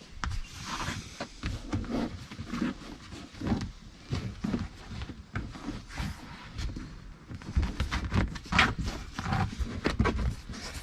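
Irregular knocks, bumps and rustling of things being handled and moved about in a car boot.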